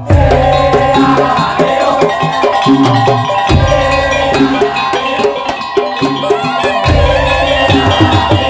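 Madurese tong-tong (daul) percussion ensemble playing: a steady beat of drums and wooden percussion under a held, wavering melody line, with heavy low drum strokes about three and a half and seven seconds in.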